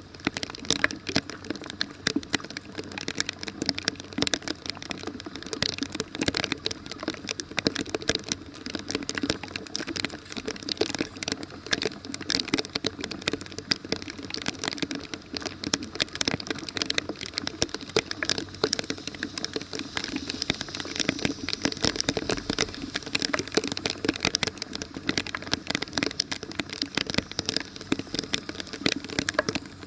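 Rain falling on a street and drain grate, a steady dense crackle of many small drops and ticks.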